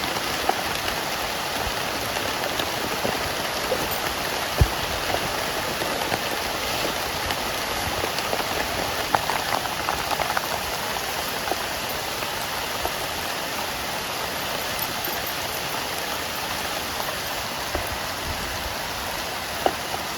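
Heavy rain falling steadily, with occasional sharper drops striking close by; the loudest comes about four and a half seconds in.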